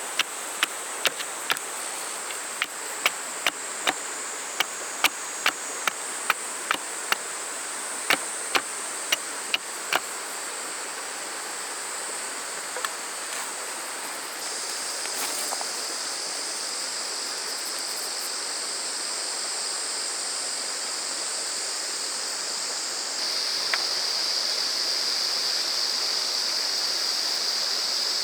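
Cicadas and other summer insects keep up a steady high-pitched drone, and a second, lower insect call comes in about halfway and grows louder near the end. Over the first ten seconds there is also a run of sharp knocks, about two a second.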